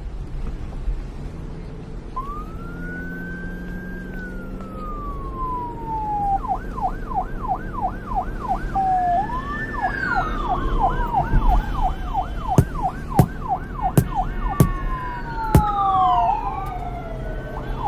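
Several police car sirens sounding together, switching between a slow rising-and-falling wail and a fast yelp, over a low vehicle rumble. A series of sharp clicks comes in over the last few seconds.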